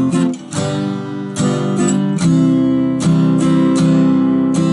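Acoustic guitar strummed in an uneven strumming pattern, each stroke sounding a full chord that rings on until the next one.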